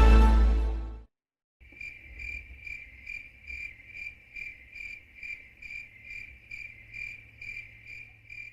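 Music fading out about a second in, then, after a brief silence, a steady, even cricket chirping at about two to three chirps a second.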